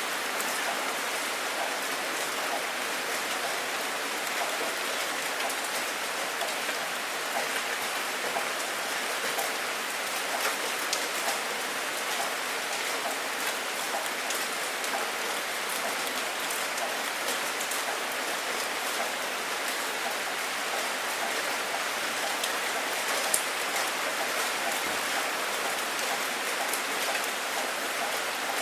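Steady rain falling, a dense patter of drops with scattered sharper ticks.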